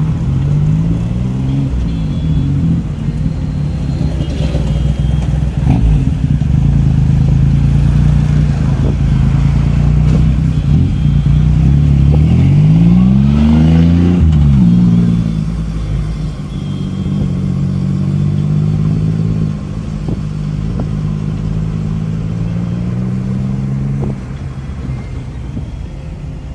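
Car engine and road noise heard from inside a moving car. The engine's pitch drifts up and down with speed changes, with one big rise and fall about halfway through, and it gets quieter after that.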